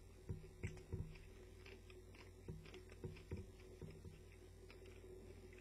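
Faint chewing of a mouthful of crispy chicken burger: soft, irregular clicks and thuds of the jaw and food, more of them in the first few seconds. The chicken's coating is crispier than usual.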